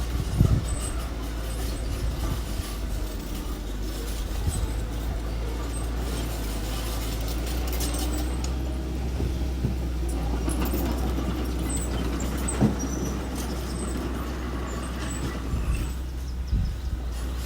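Diesel engine of small earthmoving machinery running steadily, with a few sharp clanks, one near the start and one about two-thirds of the way through.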